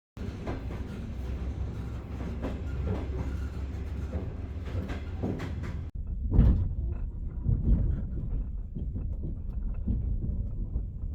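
Railway carriage running: a steady low rumble of the wheels on the track, with irregular knocks and clatter over the rail joints. The sound breaks off briefly about six seconds in, then comes back with a loud knock.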